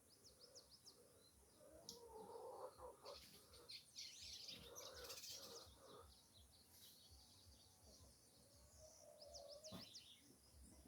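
Faint birds chirping and calling, with rapid series of short high chirps and some lower calls mixed in, busiest in the middle.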